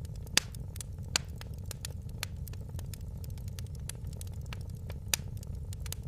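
Wood fire crackling in a fireplace: frequent sharp snaps and pops over a steady low rumble. Loud pops come about half a second in, just over a second in, and about five seconds in.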